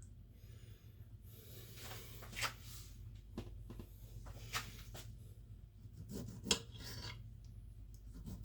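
Kitchen knife cutting a tomato on a chopping board: faint irregular scraping and soft cuts, with three sharper knocks of the blade on the board about two seconds apart.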